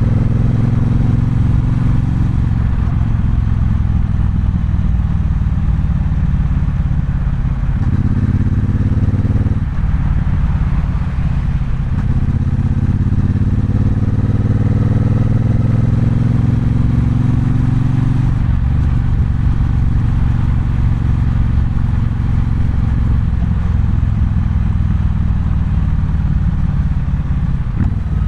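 Triumph Bonneville Bobber's 1200 cc parallel-twin engine running under way. Its pitch falls at first, rises briefly about 8 seconds in, climbs steadily through the gears for several seconds, then drops and settles to a lower, steadier note.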